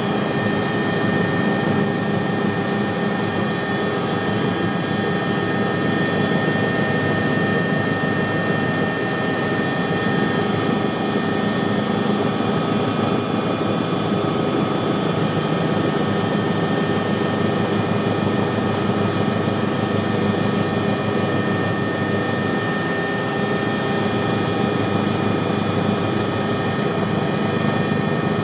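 Helicopter running steadily: a constant rush of rotor and engine noise with a steady high turbine whine over it.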